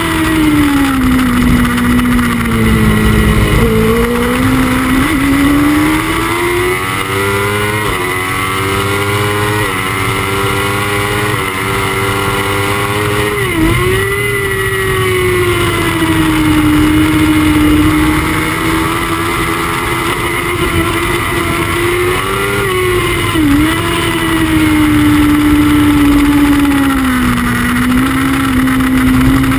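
Honda CBR1000RR superbike's inline-four engine at racing speed, heard from the bike with wind rush. The revs climb through a run of quick upshifts, each a sudden small drop in pitch, then dip sharply twice as the bike sets up for corners.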